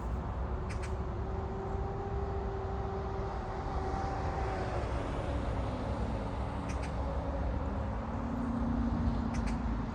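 Road traffic: a vehicle passing, its hum holding steady and then dropping in pitch about halfway through, over a constant low rumble. A few brief high ticks sound now and then.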